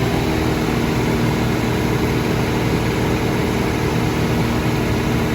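A heavy diesel truck engine running steadily, with an even hum and a strong rushing hiss.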